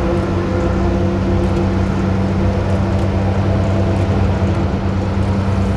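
Heavy truck engine running steadily, a low even hum with a constant pitch.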